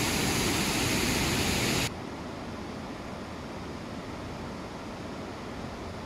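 Steady rush of a waterfall's falling water, loud at first, then cut off abruptly about two seconds in to a quieter, duller rushing.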